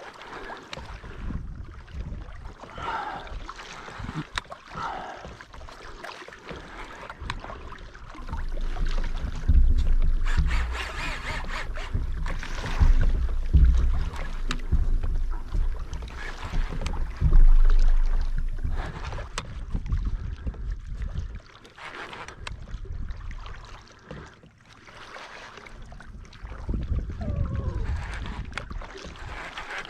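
Wind buffeting the microphone over water sloshing against a kayak's hull, with scattered knocks; the low rumble is heaviest through the middle.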